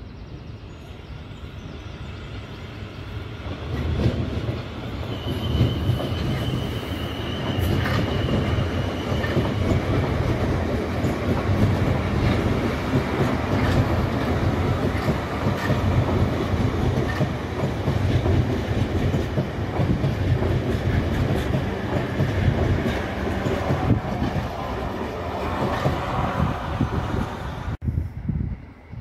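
Siemens Desiro electric multiple unit running past at close range, its sound building over the first few seconds. A high steady squeal from the wheels lasts from about five to nine seconds in. The sound breaks off abruptly near the end.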